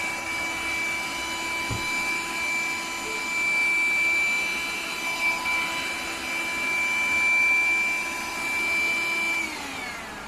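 ELUXGO EC19B cordless bed vacuum cleaner running with a steady high-pitched motor whine over rushing air, its level swelling and easing a little. About nine and a half seconds in it is switched off, and the whine falls in pitch as the motor spins down.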